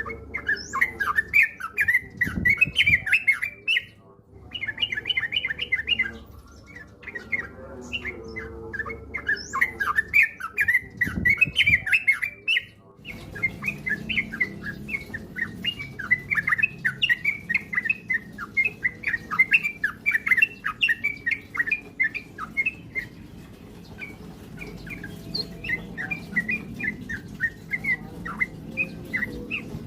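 Yellow-vented bulbul (trucukan) singing fast runs of short, bubbly chirps, broken by brief pauses about four and thirteen seconds in.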